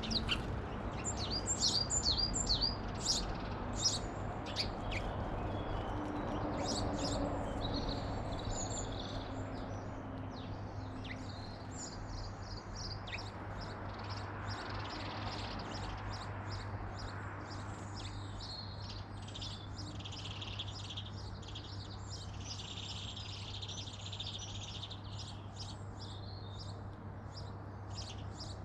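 Garden birds chirping and twittering. There is a busy run of short high chirps in the first few seconds, then a denser stretch of twittering song later on, over a steady low hum.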